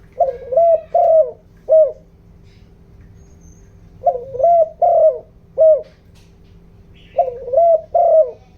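Spotted dove cooing: three phrases of about four coos each, one roughly every three seconds.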